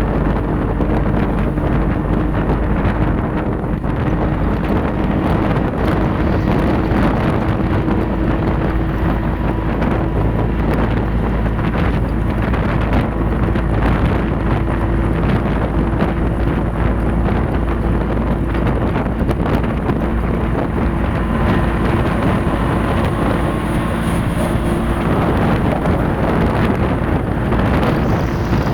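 Engine running steadily, a constant droning hum, with heavy wind buffeting the microphone.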